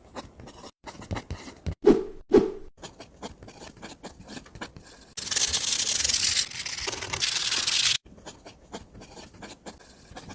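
Rubbing and scraping with scattered taps, and two duller thuds about two seconds in. A louder, steady rasping scrape starts about five seconds in and stops abruptly some three seconds later.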